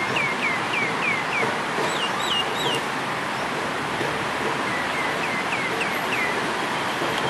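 A bird singing runs of quick, downslurred whistled notes, about three a second, over a steady rushing noise. The notes come in three runs: at the start, a few higher ones around two seconds in, and again about five seconds in.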